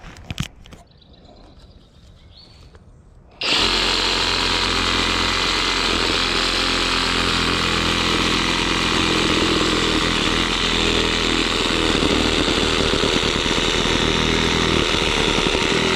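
Skil cordless reciprocating saw starting up about three and a half seconds in and sawing steadily through a thick limb of an old tree, after a couple of sharp knocks at the start.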